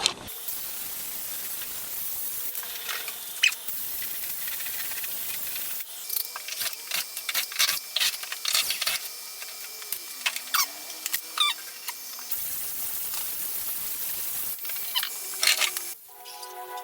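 Handheld steam cleaner jetting steam onto greasy plastic: a steady high hiss, broken in the middle and near the end by runs of sharp crackling clicks. The hiss stops shortly before the end.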